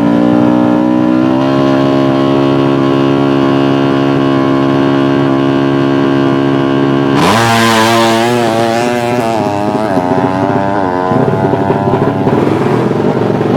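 Tuned 200cc underbone (bebek) racing motorcycle engine held at high revs at a steady pitch. About seven seconds in it turns suddenly harsher and louder, and the revs waver up and down.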